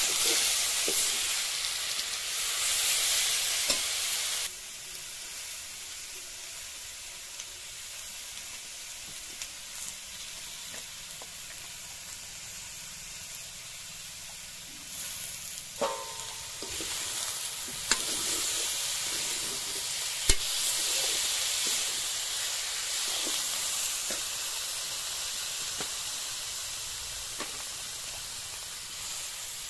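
Chicken pieces, potato and spices frying in a kadai over a wood fire, sizzling as a ladle stirs them. The sizzle drops suddenly to a softer hiss about four seconds in and grows louder again past the middle, with a few sharp clicks.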